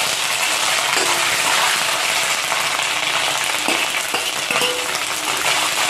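Chopped coconut frying in hot oil in a steel kadai: a steady sizzle.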